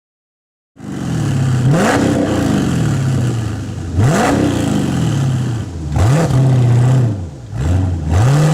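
Dodge Challenger SRT-8's HEMI V8 through a Mopar exhaust, loud and revved hard four times, the pitch shooting up and sinking back each time. It cuts in suddenly about a second in.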